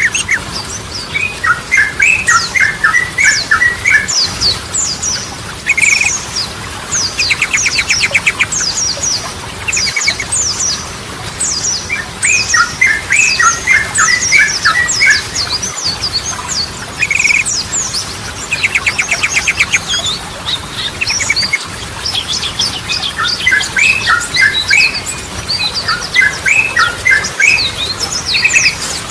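Yellow-vented bulbul (trucukan) singing continuously in lively, full-song form: bubbly chattering phrases, many quick high downward-sliding notes, and twice a fast buzzy trill. The whole sequence repeats about every twelve seconds.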